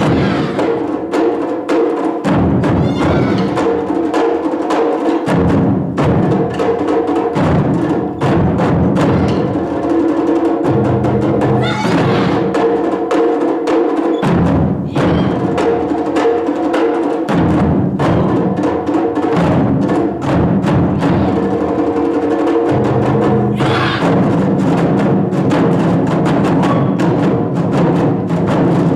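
Taiko drum ensemble playing, a dense run of rapid strokes without a break, over sustained pitched tones of a melodic accompaniment.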